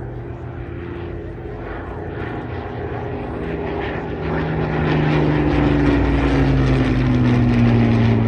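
Propeller-driven aircraft flying past. Its piston engine note grows louder, then drops in pitch as it passes.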